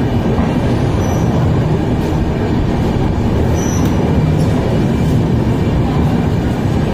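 Indian Railways express train pulling out of a station, heard from a coach doorway: a steady rumble of the coaches and wheels on the track as it moves along the platform.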